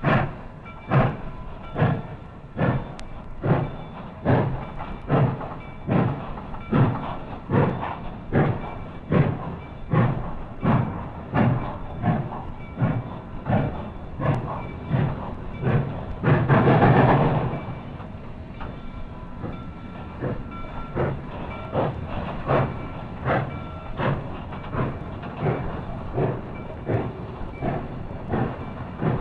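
Steam locomotive working steadily, its exhaust beating at a slow, regular pace of about one to two chuffs a second. About halfway through, a loud burst of steam hiss lasts a second or so.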